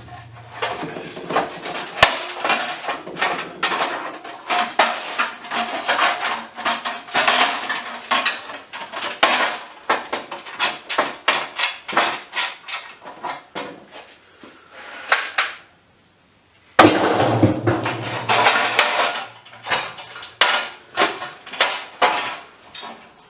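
Metal scrap being taken apart and handled by hand: rapid clinks, knocks and rattles of small metal parts and tools. The clatter stops for about a second, two-thirds of the way through, then starts again loudly.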